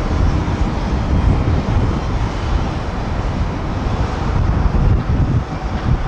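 Steady rumble of a Boeing 787-10 airliner's jet engines, mixed with wind buffeting the microphone.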